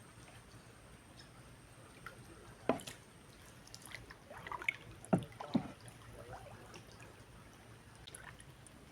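A few scattered water splashes and drips, with three sharper knocks standing out near the middle, over a faint steady background.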